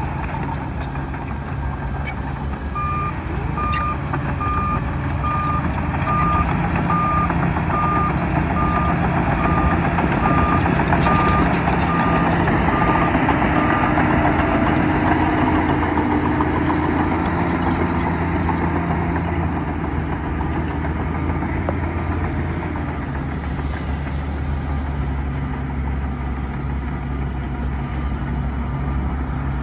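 Bulldozer's diesel engine running under load, with its reversing alarm beeping at a regular pace for about ten seconds, then stopping while the engine carries on.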